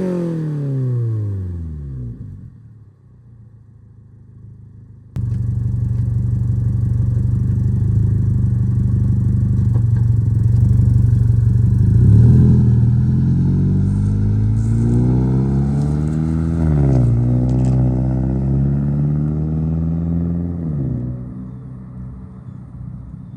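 Toyota GR86's 2.4-litre flat-four boxer engine through a Tomei Expreme Ti titanium cat-back exhaust. The revs fall away, then after a short lull the exhaust note comes in suddenly and steady, climbs twice with a sudden drop after each climb, and eases off near the end.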